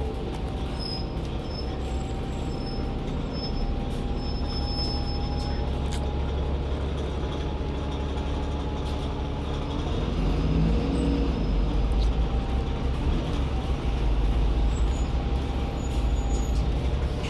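Interior running noise of an Enviro 400 double-decker bus with a Voith automatic gearbox: a steady low engine and road rumble with a faint steady whine, getting a little louder about halfway through.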